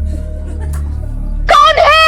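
Background music with a steady low drone. About one and a half seconds in, a loud, wavering, high-pitched cry begins.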